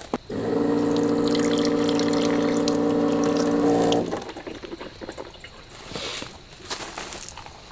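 A small electric motor runs with a steady, even hum for nearly four seconds, then cuts off suddenly. Light knocks and rustles of handling follow.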